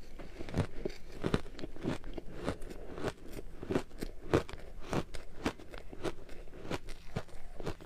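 Ice being bitten and chewed close to the microphone: a steady run of sharp crunches and crackles, several a second.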